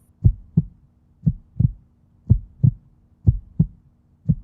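Heartbeat sound: pairs of low thumps, lub-dub, repeating about once a second over a faint steady hum.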